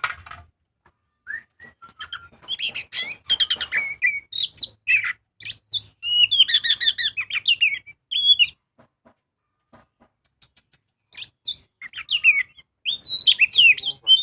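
Oriental magpie-robin (kacer) singing loudly in rapid, varied runs of sliding whistles and trills. The bird pauses for about two seconds past the middle, then takes up the song again.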